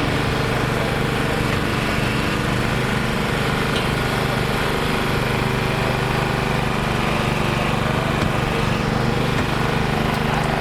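An engine idling steadily, a constant low hum that holds one pitch throughout.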